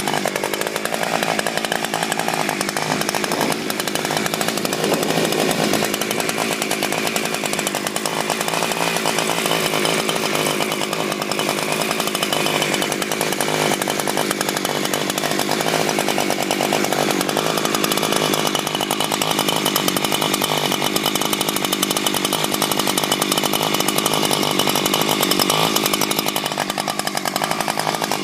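Husqvarna 359 chainsaw's 59cc two-stroke engine running at a fairly even speed.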